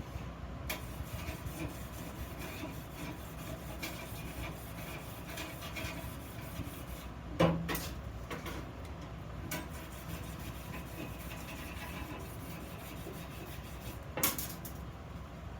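Hand work on iron vase parts: steady rubbing and scraping over a low hum, with two sharp knocks, one about halfway through and one near the end.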